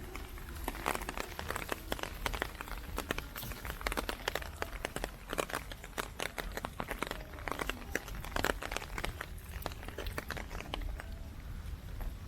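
Heavy typhoon rain, close to the microphone: a dense, irregular patter of sharp drop hits over a low steady rumble.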